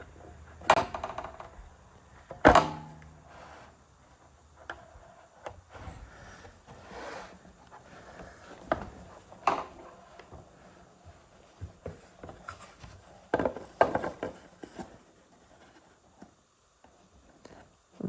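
Scattered knocks, clicks and clunks of tools and wood being handled, with no saw running; the two loudest knocks come about one and two and a half seconds in, and a few more come close together later on.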